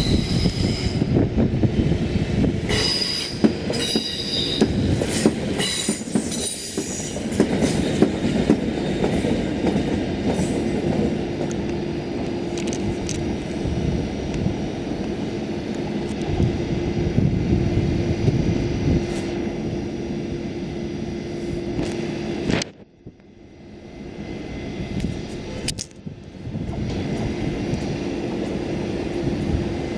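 A DSB class EA electric locomotive and its train of carriages rolling in and braking to a stop, with a heavy rumble. The wheels and brakes squeal in high, shrill bursts over the first several seconds, and a steady hum runs under the rumble in the middle. The sound drops away suddenly about three-quarters of the way through, then returns.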